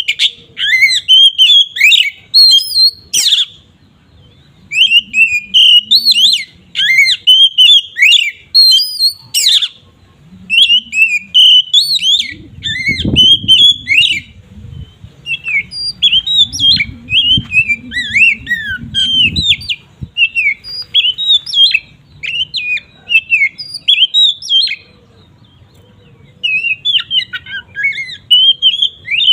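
Oriental magpie-robin (kacer) singing its long, varied song: rapid runs of clear whistled notes and chatter lasting a few seconds each, broken by short pauses. A faint low rumble sits under the song around the middle.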